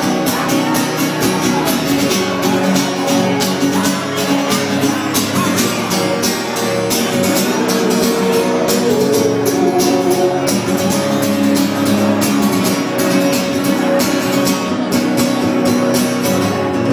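Live band playing the instrumental end of a country song: guitars over a steady drum beat, with no singing.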